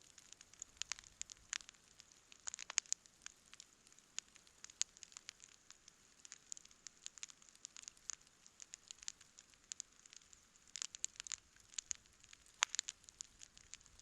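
Wood campfire crackling: irregular sharp pops and snaps, in a few dense clusters, over a faint steady hiss.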